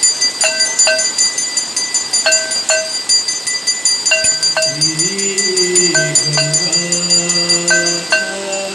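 Aarti bells ringing continuously with rapid repeated strikes. About halfway through, a low held note with a slight rise at its start joins them and carries on.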